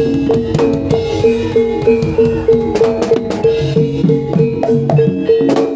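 Jaranan gamelan music: one pitched gong-chime note repeated about three times a second over a shifting lower note pattern, with kendang drum strokes.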